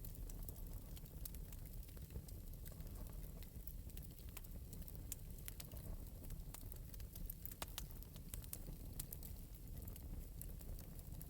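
Fire in an open metal fireplace crackling softly: irregular sharp pops and ticks, several a second, over a steady low rumble.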